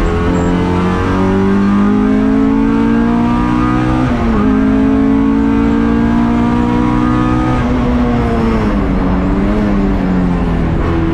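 Race-prepared Honda Civic's 1.6-litre four-cylinder engine heard from inside the cockpit under hard acceleration: it climbs in pitch, drops sharply at an upshift about four seconds in, and climbs again. From about two-thirds through it falls in pitch as the car slows, with a brief rise and fall near the end.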